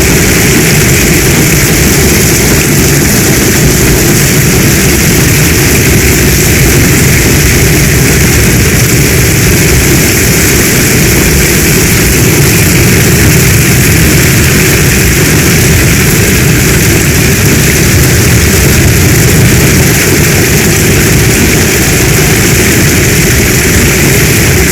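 Heavy storm rain falling steadily: a loud, unbroken hiss with a deep rumble underneath.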